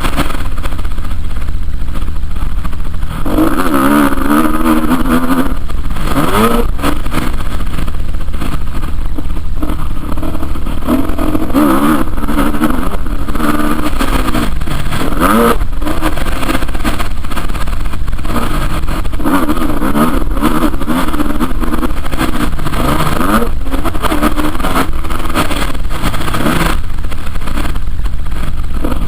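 Motocross bike engine revving up and falling back again and again as it rides, over a steady low rumble.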